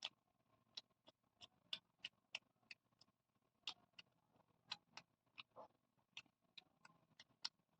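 Faint mouth sounds of eating: soft, irregular clicks and smacks of chewing, about two to three a second.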